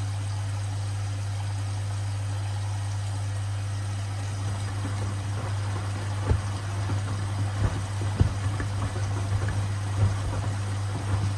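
Washing machine running with a steady motor hum; from about four seconds in, irregular thuds as the sneakers knock against the drum.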